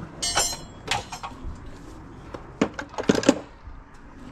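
Metal engine parts and tools being handled and set down on a workbench: a short clinking rattle at the start, a few light clicks about a second in, then a cluster of louder knocks around three seconds in.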